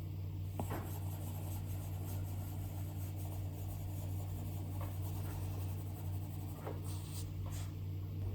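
A stylus nib tapping and scratching on an iPad's glass screen in a few short drawing strokes: one about a second in and a cluster near the end. A steady low hum runs underneath.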